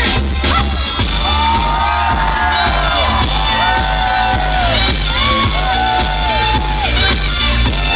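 Live pop music over a loud PA: a woman singing a melody over a backing track with a heavy, steady bass beat, her voice coming in about a second in.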